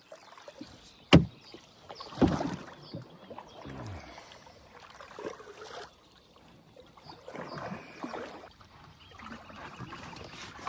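Canoe paddle strokes swishing through the river water every second or two, with a sharp knock about a second in and a duller thump a second later.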